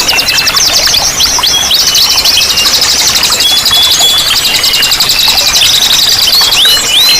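Several songbirds singing at once: a fast, high trill of rapidly repeated notes runs through most of it, with short downward-sweeping whistles from another bird near the start and again near the end, over a steady hiss of running water.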